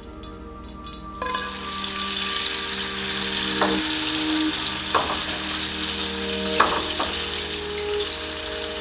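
Cubes of raw chicken breast sizzling steadily in hot oil in a frying pan, the sizzle starting suddenly about a second in. Three short, light knocks are heard as more pieces go into the pan.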